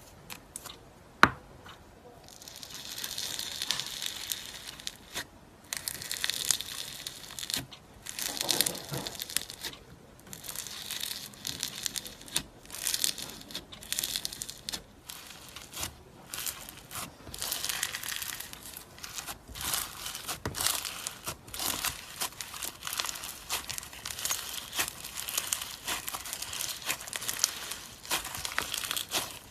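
Slime being worked by hand: bouts of wet crackling, crinkling and popping, broken by short pauses, with one sharp click about a second in.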